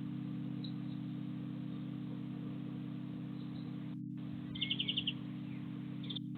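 A small garden bird chirping: a quick run of about six short high notes about halfway through, then one more near the end, over a steady low hum.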